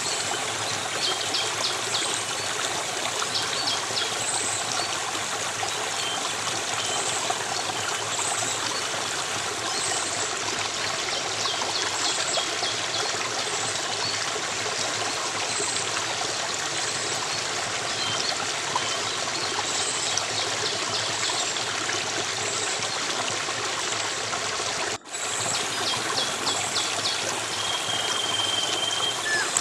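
Steady flowing stream water, trickling and splashing, with faint high chirps repeating every second or two. The sound cuts out for an instant about 25 seconds in.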